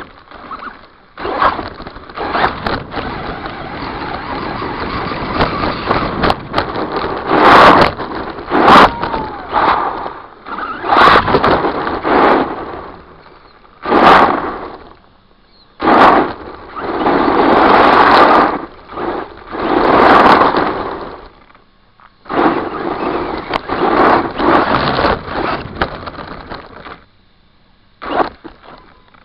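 Redcat Volcano RC monster truck with a brushless motor, heard from its onboard camera, driving in repeated throttle bursts: noisy surges of motor and tyre noise with a rattling chassis, each lasting a second or a few seconds, with short pauses between and a few sharp knocks.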